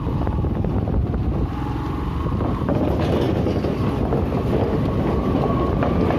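Motorcycle on the move, its engine running under a steady rumble of wind on the microphone.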